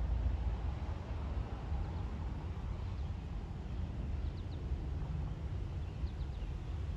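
Low, steady rumble of a CSX intermodal train's diesel locomotives approaching from a distance, with a few faint bird chirps.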